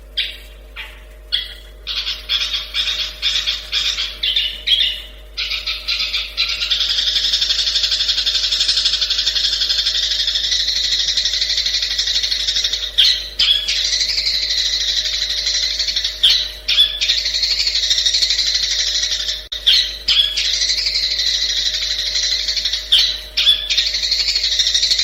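Long-tailed shrike (cendet) singing: a few separate sharp calls, then quick repeated notes, running from about five seconds in into a fast, unbroken chattering song with short breaks now and then.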